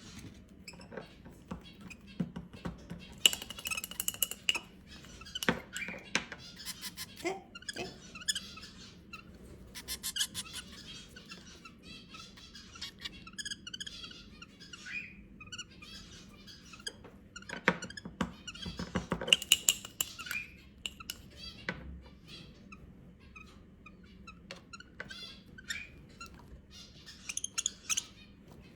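Small pet birds, zebra finch or lovebird chicks, chirping and squeaking in short high calls that come in clusters, amid scattered clicks and knocks.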